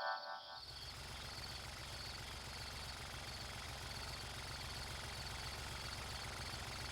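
Night-time cartoon ambience: a low, steady engine rumble with faint, regular high chirps of night insects over it.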